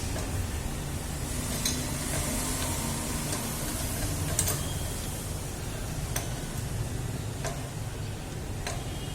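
Scattered sharp clicks and taps of metal hand tools working a gas pipe coupling, about one every second or two, over a steady low background rumble.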